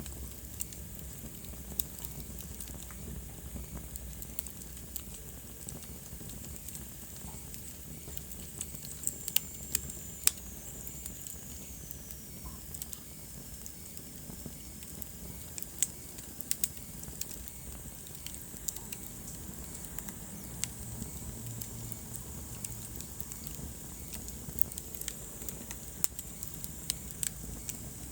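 Wood fire burning in a fireplace: a steady low rumble and hiss with sharp crackles and pops at irregular intervals.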